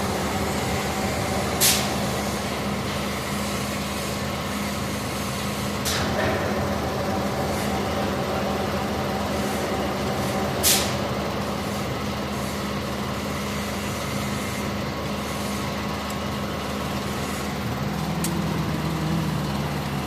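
MAN diesel engine swapped into a GAZ-3309 truck running steadily at its first start, with three short, sharp hisses of released air spread through the first half. Near the end another lower tone joins the engine sound.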